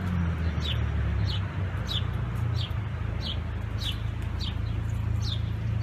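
A bird chirping over and over, one short high chirp falling in pitch about every two-thirds of a second, over a steady low hum.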